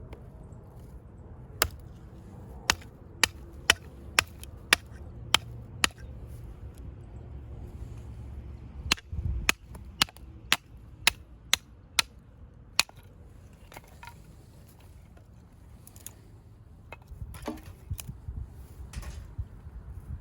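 Firewood being split: two runs of sharp chopping strikes, about two a second, with a short pause between them, and softer rustling of wood near the end.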